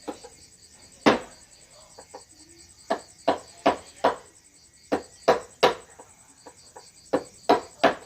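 Wood carving: a mallet striking a carving chisel into wood, about a dozen sharp knocks at irregular spacing, some in quick runs of two or three.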